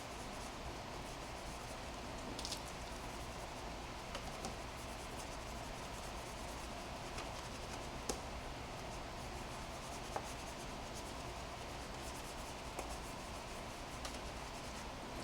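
Cloth rubbing steadily over a car's paintwork during a hand wash, with a few soft clicks.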